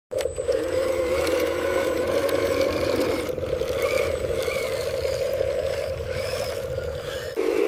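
Radio-controlled construction model running: a steady whirring of its small motor and gearbox with a rough, scraping edge. It shifts pitch and gets louder near the end.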